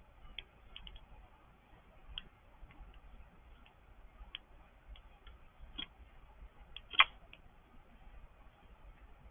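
Birds pecking at a feeder: irregular sharp taps and clicks of beaks on seed and feeder, with one louder knock about seven seconds in.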